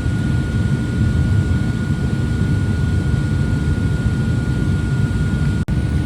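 Airliner cabin noise: a steady low rumble of the jet engines and airflow with a thin, steady high whine. It cuts out for an instant near the end.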